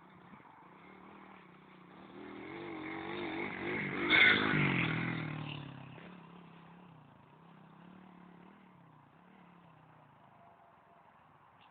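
Small four-stroke 110cc pit bike engine revving as it rides past. It gets louder to a peak about four seconds in, then fades to a faint note that rises and falls with the throttle.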